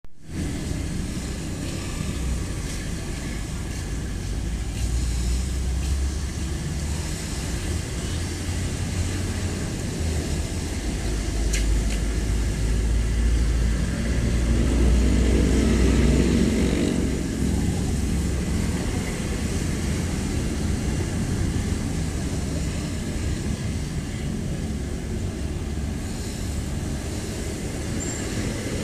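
Road traffic: a steady low rumble of vehicle engines and tyres. About halfway through it swells for a few seconds as a vehicle passes close, then settles back.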